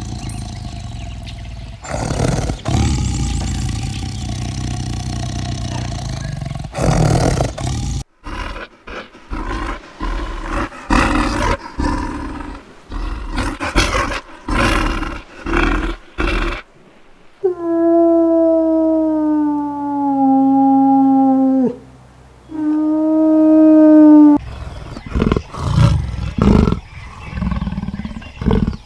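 Large wild animals roaring and growling in a run of rough calls, some long and some short. In the middle come two long, pitched calls that fall slightly.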